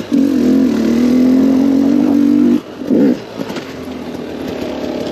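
KTM 250 XCW's single-cylinder two-stroke engine held at steady revs under load, then shut off about two and a half seconds in. A short blip of the throttle follows, and it settles back to a lower, quieter run.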